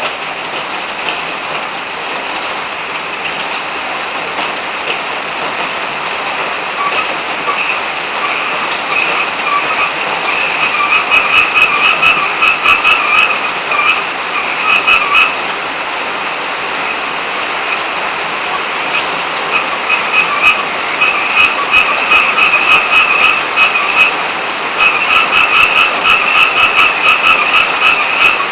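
Frogs calling in bouts of rapid pulsed croaks over the steady hiss of rain. The calls start faint about a quarter of the way in, then come in louder runs with short pauses between them.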